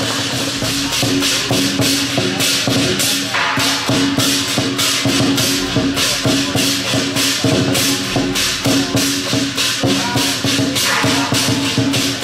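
Procession band music: rapid, evenly spaced percussion strikes, about four a second, over a sustained melody line.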